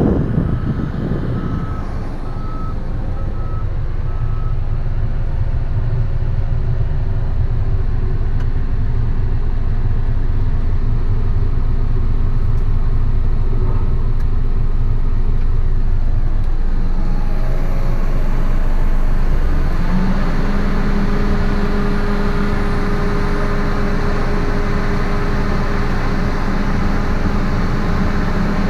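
Steady low rumble of a running vehicle engine. Short repeated beeps come in the first few seconds, and a steadier hum joins from about two-thirds of the way through.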